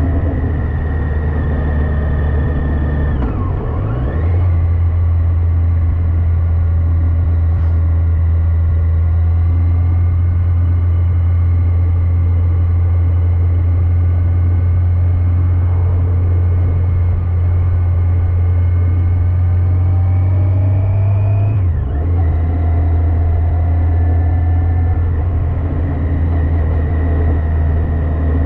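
Yamaha FJR1300AE motorcycle's inline-four engine running under way at road speed. Its pitch dips and recovers about three seconds in, climbs slowly, then drops sharply about two-thirds of the way through.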